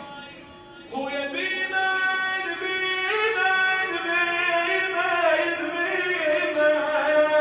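A male radood chanting a Muharram lament in long, wavering held notes that slide from pitch to pitch without clear words. The voice comes in strongly about a second in after a brief lull.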